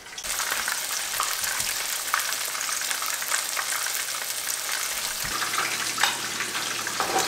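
Canada goose thighs frying in hot oil in a skillet: a steady sizzle with scattered crackles, and a click about six seconds in.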